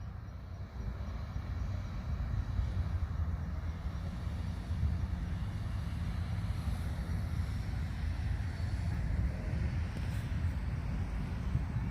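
Steady low outdoor rumble with a faint hiss above it, unbroken throughout.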